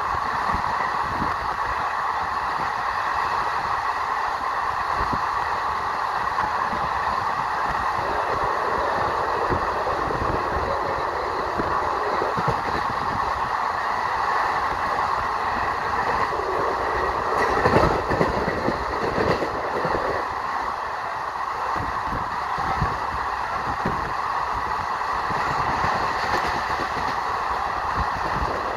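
A train running along the rails: a steady rolling roar with irregular knocks and rattles from the wheels and wagons, and a louder cluster of clanks about two-thirds of the way through.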